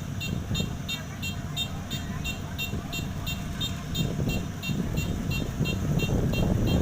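Combine harvester's diesel engine running with a steady rumble, over an electronic warning beeper sounding about three short beeps a second.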